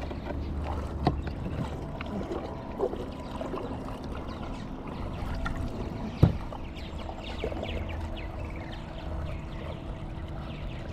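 Water lapping and trickling against a kayak hull, with a sharp knock about six seconds in and a smaller one about a second in.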